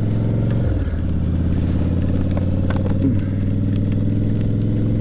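Yamaha V-Star 1100 Classic's air-cooled V-twin engine running under way, pulling the bike along. Its note breaks briefly about a second in, then runs on steadily.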